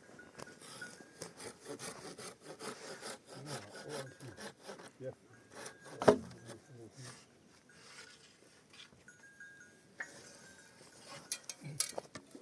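Wood being worked by hand with a tool, in quick, repeated scraping or sawing strokes. There is one sharp knock about six seconds in, and a few more knocks near the end.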